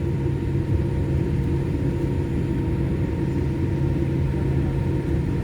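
Steady low rumble of airliner cabin noise inside a Boeing 787 Dreamliner, with its jet engines idling while it waits in the take-off queue. A few steady hum tones run through it.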